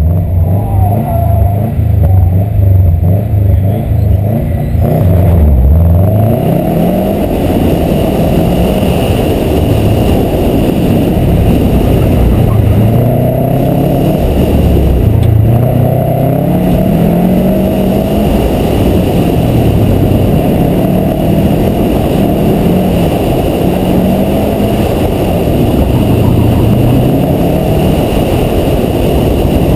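Subaru WRX STI's turbocharged 2.5-litre flat-four launching hard, then rising and falling in revs again and again as the car is driven hard through tight cone turns. A steady high tone runs along with it from about seven seconds in.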